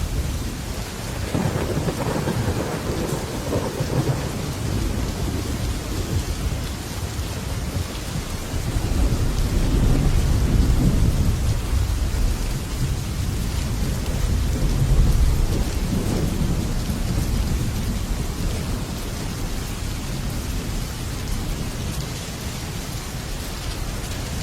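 Heavy rain drumming steadily on a metal roof, with low rolling thunder that swells and fades several times, loudest about halfway through.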